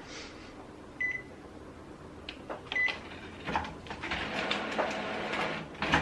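Two short beeps from an Epson WorkForce WF-3620 printer's control panel as menu buttons are pressed, almost two seconds apart. About three and a half seconds in, the printer's mechanism starts running with a clattering mechanical noise as it begins printing a nozzle check pattern.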